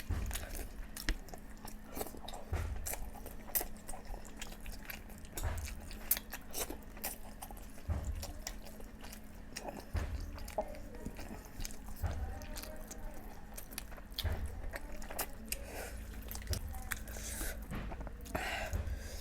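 Close-miked eating of boiled eggs and chicken curry: steady chewing and biting with wet mouth clicks and smacks, and a low thump every second or two.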